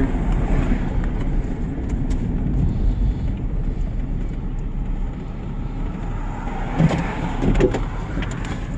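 Truck's engine and road noise, a steady low rumble, with two brief knocks near the end.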